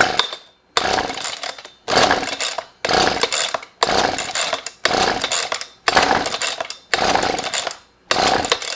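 Husqvarna 125B leaf blower's small two-stroke engine being cranked by about eight quick pulls of the recoil starter cord, roughly one a second. Each pull spins the engine briefly and it dies away without running on, in a no-start condition.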